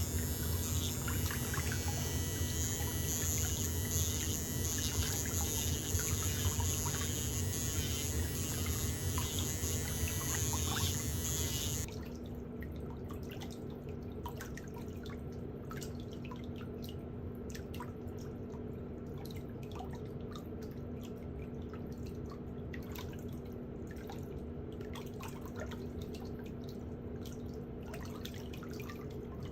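Water running, cut off abruptly about twelve seconds in, then many drips and small splashes over a low steady hum.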